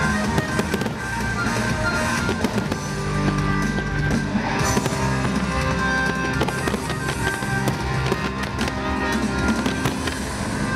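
Fireworks bursting and crackling in quick succession over music with long held notes.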